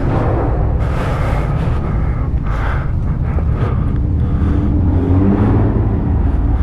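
Motorcycle engine running at low speed with a steady low rumble, as the bike is eased into a parking spot.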